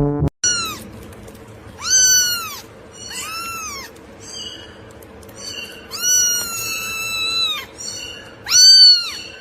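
Cat meowing over and over, about seven high-pitched meows that each rise and fall, one drawn out for over a second.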